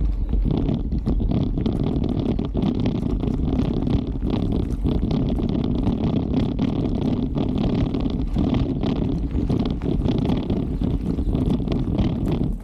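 Mountain bike being ridden: a steady low rumble with many small knocks and rattles.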